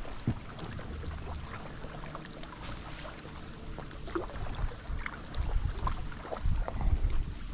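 Outdoor noise on a fishing boat: wind rumbling on the microphone, swelling a few times, with scattered small ticks and taps throughout.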